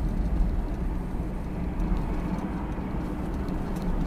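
Steady low rumble of a car on the move, road and engine noise picked up by an in-car dashcam.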